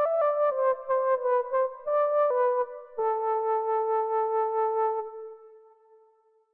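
Synthesizer keyboard melody with an electric-piano-like tone: a run of short notes stepping down in pitch, then one long note held for about two seconds that fades away near the end.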